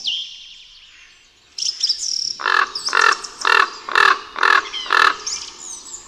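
Wild bird calls: a few high chirps, then a run of six loud, harsh calls at about two a second.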